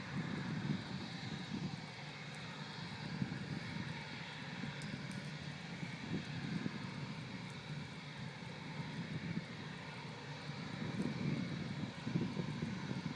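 Airbus A319 jet engines running steadily before take-off: a low, wavering rumble with a faint steady whine above it.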